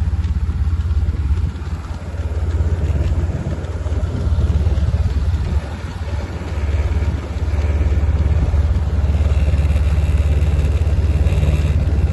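A motor vehicle's engine running at a steady pace as it moves along, a low rumble that dips briefly a couple of times.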